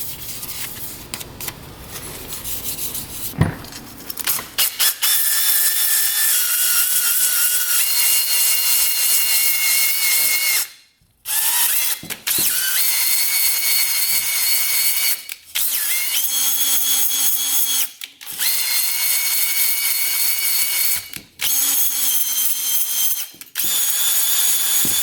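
Drill spinning a ball hone inside the cylinder of a 1985 Yamaha 225DX two-stroke, lubricated with two-stroke oil, to hone the bore. After a few seconds of quieter handling it runs in bursts of a few seconds with short stops, a steady motor whine in each burst.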